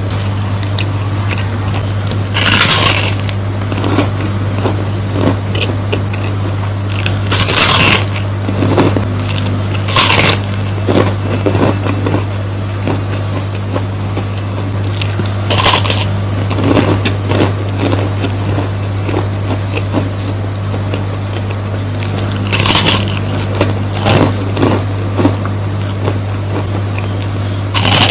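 Close-miked mukbang eating sounds: chewing a meal of rice with sweet soy sauce, with smaller clicks throughout and about six short, louder crunchy bites spread through. A steady low hum runs underneath.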